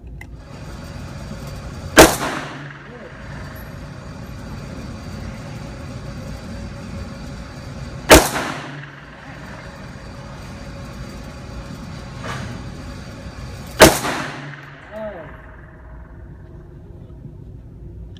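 Three single gunshots, each a sharp crack with a short echo, fired slowly about six seconds apart. A much fainter shot comes a little before the third.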